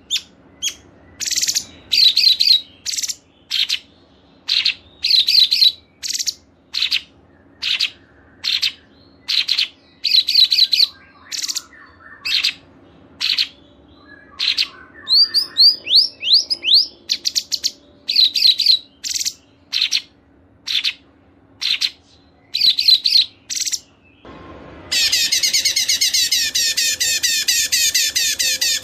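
Songbirds calling: short, sharp clusters of high notes repeated about once or twice a second, then, after a brief break near the end, a different bird singing a continuous rapid high trill.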